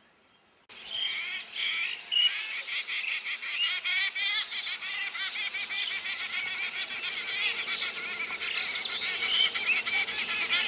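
Many birds calling at once in a dense chirping chorus, starting abruptly about a second in after a moment of silence.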